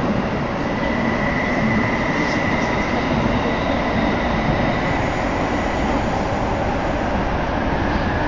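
Tsukuba Express commuter train running through a tunnel, heard from inside the carriage as a steady rumble and rush. A faint high whine sounds from about a second in to about five seconds.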